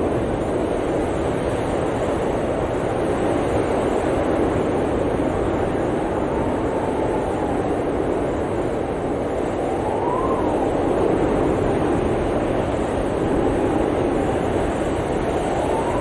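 Blizzard wind blowing steadily, with a faint whistle that rises and falls in pitch a few times.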